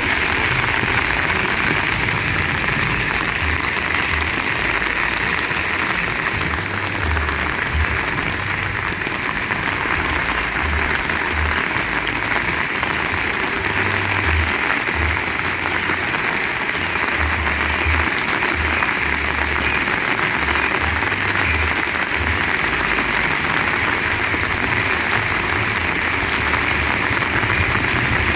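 Very heavy rain pouring steadily as a dense, even hiss, with irregular low rumbles of strong wind buffeting the microphone coming and going.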